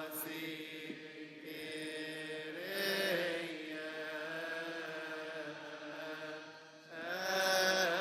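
Coptic liturgical chant: a voice singing long, drawn-out melismatic notes that slowly bend in pitch, with a wavering ornament near the end.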